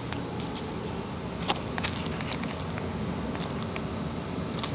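Low, steady room noise with a scattered handful of small, sharp clicks and crackles, the clearest about one and a half seconds in.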